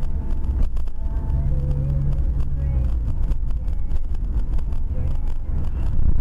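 A car running on the road, heard from inside the cabin: a steady low engine and tyre rumble with a hum, and frequent small knocks and rattles.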